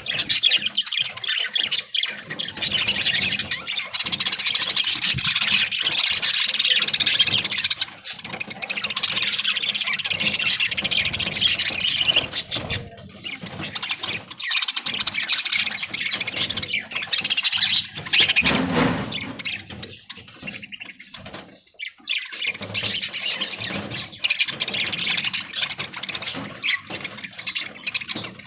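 A flock of budgerigars chattering and chirping, a dense, continuous warble that thins out briefly a few times.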